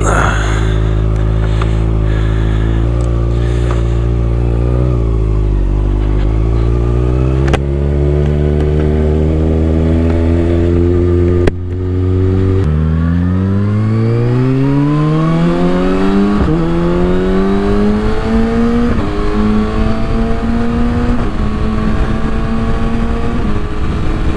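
Kawasaki ZX-6R inline-four with a Yoshimura exhaust. It runs steadily at first, then pulls away: the engine note climbs and drops sharply as it shifts up, about twelve, sixteen and nineteen seconds in, then settles into a steady cruise. Wind buffets the microphone as speed builds.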